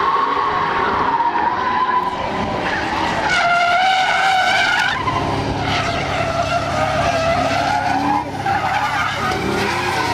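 Drift car sliding, its tyres squealing in long wavering screeches over the engine running under load. The squeal is sharpest and highest from about three to five seconds in, after which the engine's low drone grows stronger.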